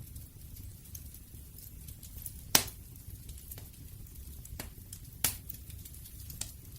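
Wood fire crackling: irregular sharp pops and snaps over a low steady rumble, the loudest pop about two and a half seconds in and another just after five seconds.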